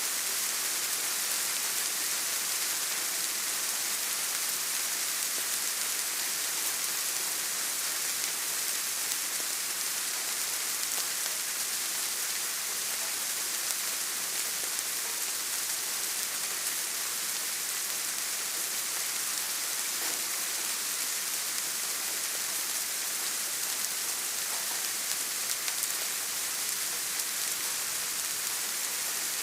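Steady rain falling on a surface, an even, constant hiss with no thunder or distinct drips.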